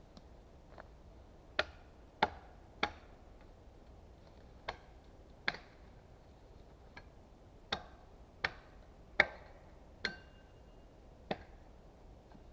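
Small axe chopping wood: about a dozen sharp, separate blows at an uneven pace, roughly one a second, some with a short ring after them.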